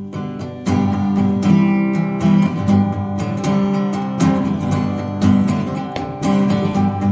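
Acoustic guitar strumming chords, a strong stroke about every second, as the introduction to a sung worship song.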